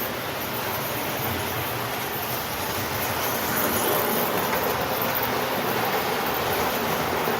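Lionel 390E standard gauge toy train running along the track with its coal hoppers: a steady rumbling rush of wheels and motor that swells slightly a few seconds in.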